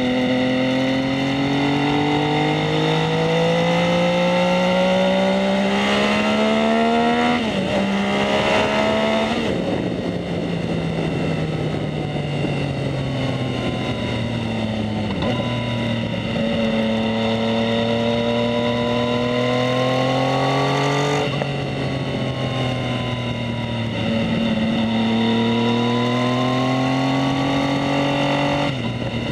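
2019 Yamaha MT-09's 847 cc inline-three through a Two Brothers S1R full exhaust, ridden under way. It pulls up with rising pitch, with a sudden drop at a shift, then the revs sink for several seconds as it eases off, before pulling up again twice more, each run ending in a sudden drop.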